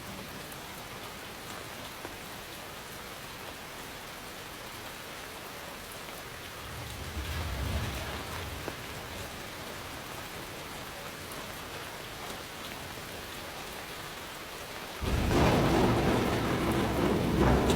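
Steady rain falling, with a low thunder rumble swelling about seven seconds in. Near the end a much louder peal of thunder breaks in suddenly and keeps rolling.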